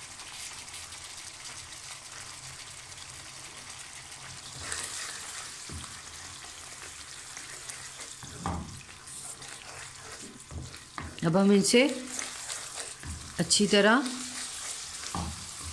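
Onion-tomato gravy base sizzling in hot oil in a nonstick pan, freshly seasoned with ground spices, while a wooden spoon stirs and drags through it. A voice sounds briefly twice in the second half, louder than the sizzle.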